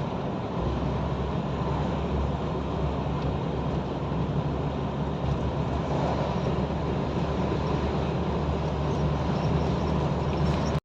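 Steady drone of a truck's engine and road noise heard inside the cab while driving, with a deep hum that grows a little fuller about half a second in.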